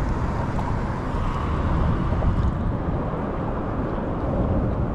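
Steady outdoor noise from wind rumbling on the microphone over the flowing river, with no clear separate events.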